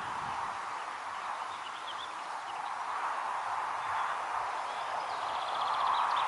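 Summer pond ambience: a steady, slowly swelling rushing hiss, with small birds chirping above it and a quick rapid bird trill near the end.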